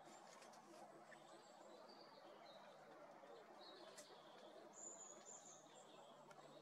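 Faint calls of distant small birds, thin high notes, the clearest a short held high note about five seconds in, over a low steady background hiss.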